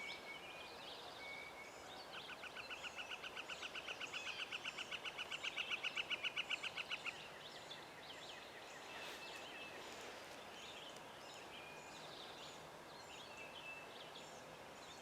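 A bird calling a long, fast trill of evenly spaced notes, about ten a second, growing louder for roughly five seconds and then stopping abruptly, over a faint dawn chorus of other birds' short chirps and calls.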